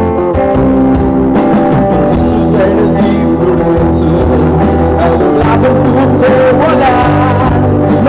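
Live rock band playing a song, with electric guitar, bass and drums and a voice singing.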